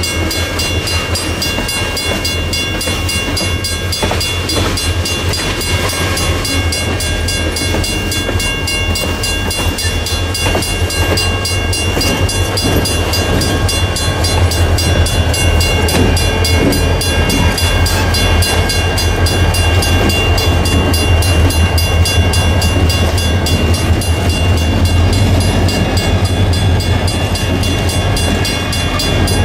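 Freight train passing close by: tank cars rolling on the rails, then EMD SD40-3 diesel-electric locomotives passing with their engines running in a deep, steady drone. The drone grows a little louder in the middle as the locomotives go by.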